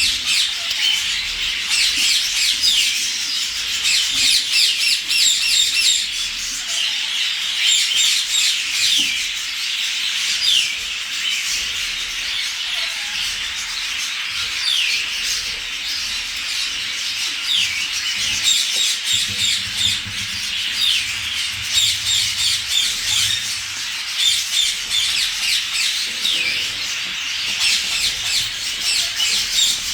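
A flock of African grey parrots squawking, many short harsh calls overlapping without a break: the birds are agitated.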